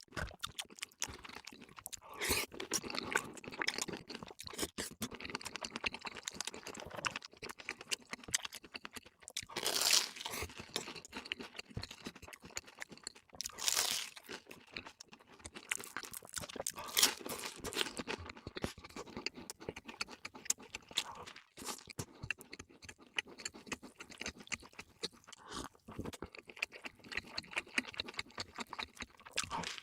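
Close-miked eating sounds: steady chewing and smacking with many small crunchy bites, and a few louder crunches spread through the middle.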